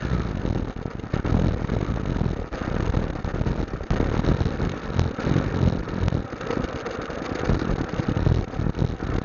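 Motorcycle engine running while riding, under an uneven low rumble that swells and falls throughout.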